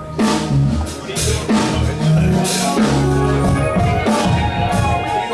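Live band playing: a drum kit pounding out a steady beat under bass guitar and held instrument notes, with electric guitar.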